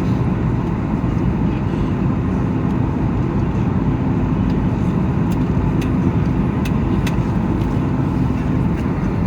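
Steady cabin roar of a Boeing 737 MAX 8 on approach: engine and airflow noise, deep and even, with a constant low hum. A few faint ticks come about halfway through.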